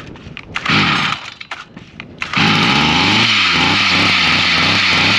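Stihl MM55C tiller's small two-stroke engine being pull-started: a short burst of engine noise about a second in, then it catches a bit over two seconds in and runs loud, its pitch rising and dipping unevenly. It is running rough, spitting raw unburned fuel out of the muffler, a fault traced to the carburetor.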